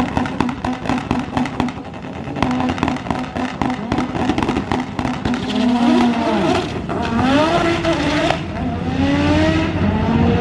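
Drag race cars at the start line, engines held against a rev limiter with a rapid run of crackling pops. About six seconds in they launch, and the engine pitch climbs, drops at each gear change and climbs again as they accelerate away.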